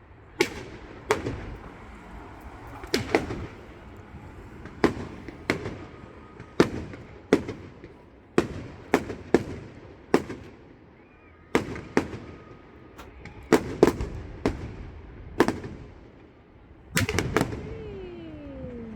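Aerial fireworks bursting in a display: a string of sharp bangs at irregular intervals, roughly one a second, with a falling tone near the end.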